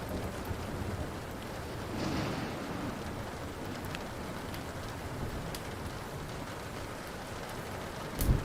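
Steady rain with a wood fire crackling in scattered small pops. A low rumble of thunder swells about two seconds in, and a single sharp, loud crack comes near the end.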